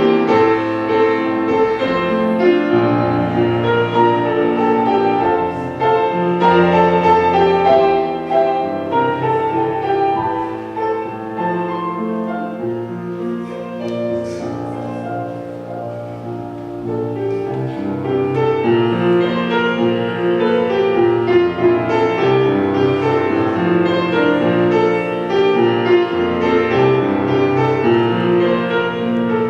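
Offertory music played on piano: slow sustained chords and melody, softening for a few seconds midway and then growing fuller again.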